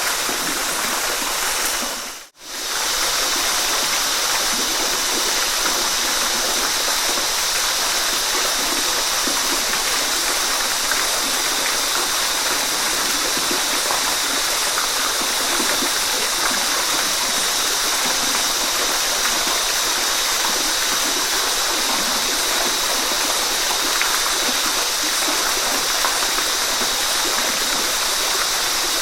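Waterfall rushing steadily, a dense even hiss of falling water. About two seconds in, the sound briefly fades almost to silence and then comes straight back.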